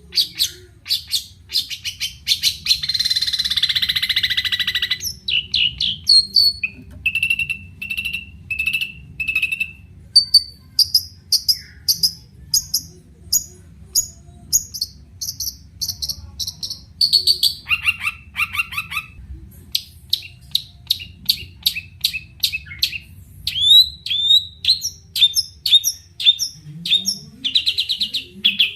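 Long-tailed shrike (cendet) singing: quick runs of short, sharp repeated notes that switch from phrase to phrase, with a harsh buzzy chatter a couple of seconds in.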